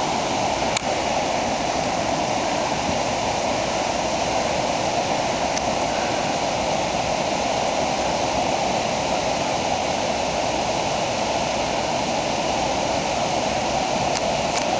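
Whitewater rapids of the New River rushing in a steady, unbroken roar of water.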